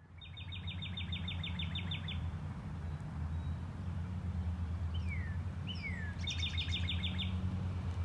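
Songbirds singing: a quick, even trill of about fourteen notes, two short down-slurred whistles, then a second shorter trill near the end, over a steady low rumble.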